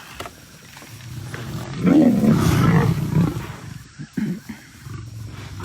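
Lions snarling and growling in a fight with buffalo. A loud, drawn-out roaring call starts about two seconds in and lasts about a second and a half, with shorter growls a little later.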